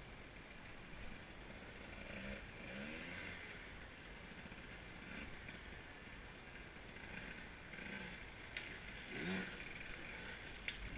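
Faint dirt bike engine sound, with a few short revs that rise and fall.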